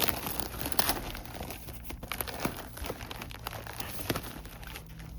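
Crinkling and rustling of plastic shrink-wrap as a wrapped fireworks package is handled, with irregular sharp crackles and taps.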